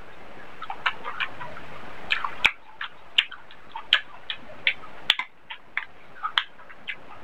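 Close-miked wet chewing and lip-smacking while eating curried chicken and rice, in irregular clicks and smacks about two or three a second, with two sharper clicks about two and a half and five seconds in.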